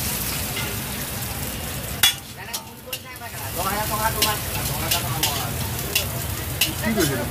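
Small chopped pieces frying in hot oil in a wok with a steady sizzle. In the second half a metal spatula stirs them, clinking and scraping against the wok about once a second.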